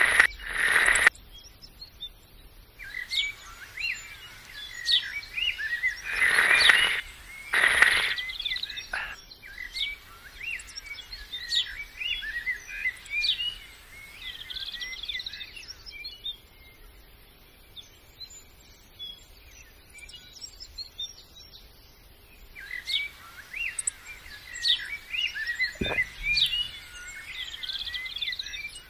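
Small birds chirping and twittering in quick, repeated notes, thinning out for a few seconds in the middle. Three short, loud noisy bursts break in near the start and at about six and eight seconds in.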